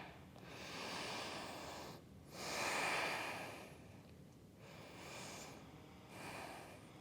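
A person breathing audibly close to the microphone: four soft, noisy breaths in and out, the strongest about two to four seconds in.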